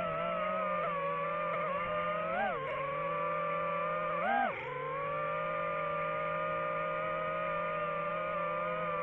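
DJI FPV drone's motors and propellers whining steadily, with two brief rises and falls in pitch as the throttle is blipped.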